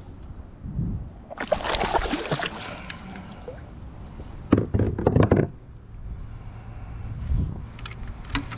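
Water splashing around a kayak, with a cluster of loud knocks about halfway through.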